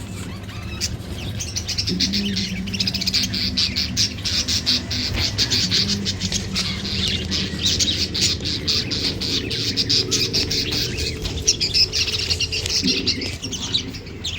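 A mass of caged budgerigars and other small cage birds chattering and chirping together in a busy, continuous din, over a low steady hum.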